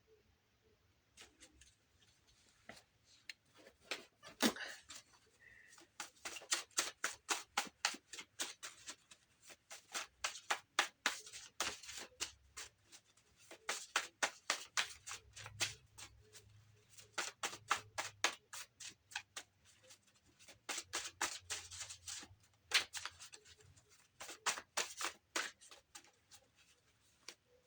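A deck of cards being shuffled by hand: runs of quick, sharp flicking clicks that come in several bursts with short breaks between them.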